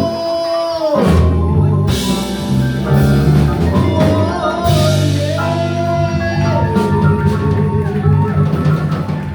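Live blues band playing an instrumental passage: electric guitar lines over a walking bass and drum kit, with a held note ending and a cymbal crash about a second in.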